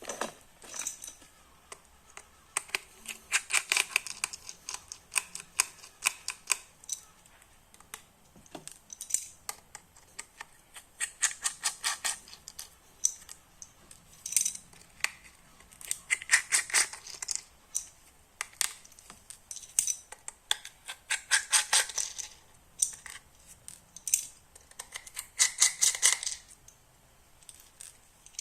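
Parcel packaging being opened and handled: bursts of crinkling and rustling with quick clicks and snaps, broken by short pauses.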